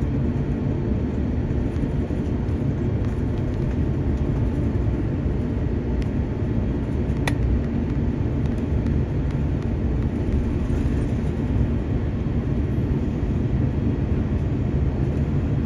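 Steady low rumble of cabin noise inside a Singapore Airlines Airbus A350-900 on the ground after landing, with a single brief click about seven seconds in.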